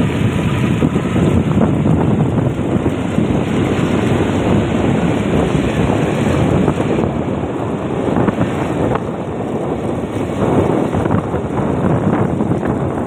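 Loud, steady rush of heavy rain and flowing floodwater, with wind buffeting the microphone.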